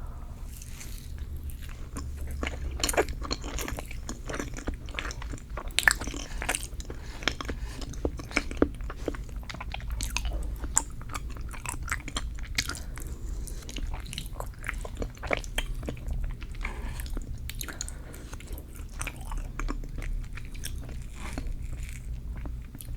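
Close-miked chewing of dense, creamy cheesecake: soft, sticky mouth sounds and lip smacks in an irregular run, with a few sharper clicks.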